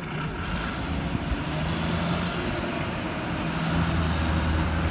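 Diesel engine of a JCB backhoe loader running steadily, growing louder from about a second and a half in.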